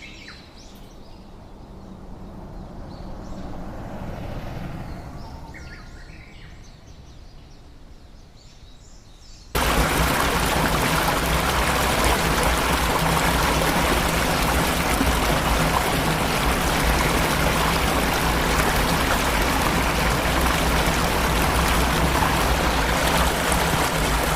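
Quiet outdoor ambience with faint bird chirps, then about ten seconds in the loud, steady rush of a waterfall cuts in abruptly.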